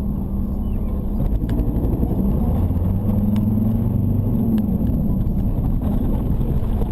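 Steady engine and road rumble of a moving car heard from inside the cabin, with a low hum that swells between about three and four and a half seconds in.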